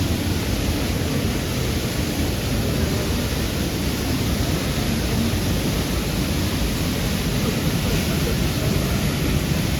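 Waterfall: a steady rush of falling water with no pauses or changes.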